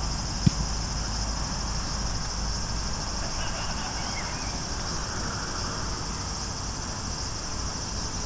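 Insects chirring in a steady high-pitched hiss, with one sharp knock about half a second in.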